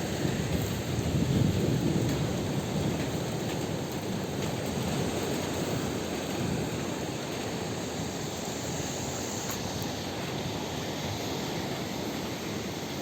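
Steady rain falling, with a low rumble of thunder swelling in the first couple of seconds and then dying away under the rain.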